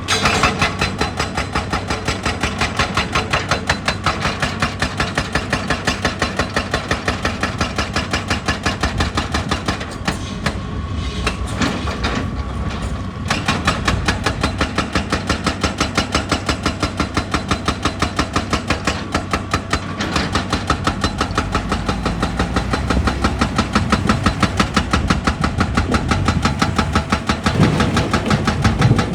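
Excavator-mounted hydraulic breaker hammering rock, a fast, even pounding over the machine's engine, with a couple of short pauses about ten and twelve seconds in.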